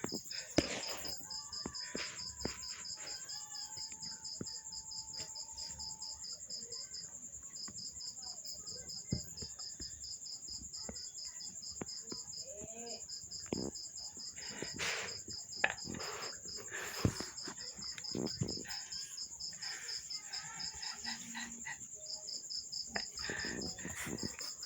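Insects chirping in a fast, even pulse over a steady high whine. The pulsing breaks off briefly a few times. Scattered faint clicks and knocks sit underneath.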